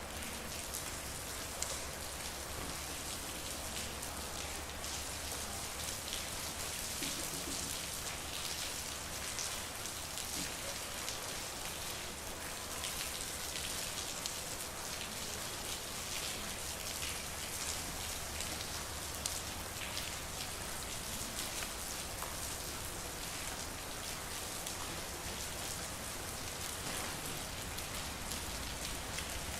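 Steady rain falling on a street: a constant even hiss with many individual drops ticking through it, and a couple of sharper drip ticks, one near the start and one about two-thirds of the way through.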